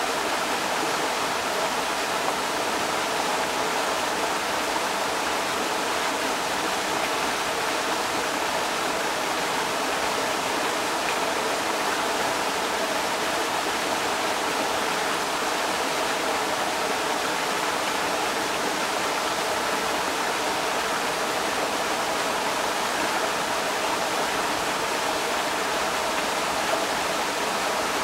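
Creek water rushing over rocks: a steady, unbroken rush.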